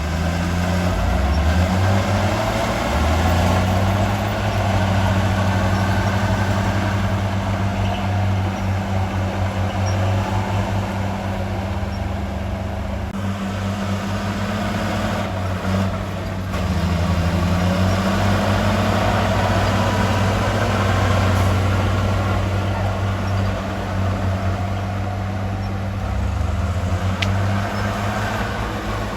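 Heavy diesel engine of earthmoving equipment running steadily, its pitch shifting up and down several times as the engine speed changes.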